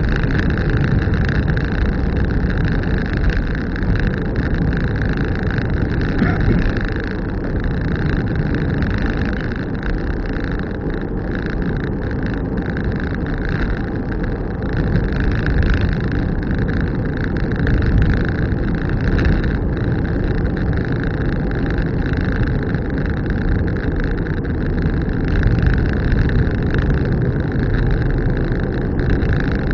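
A car being driven at a steady pace, with continuous engine and tyre noise heard from inside the cabin.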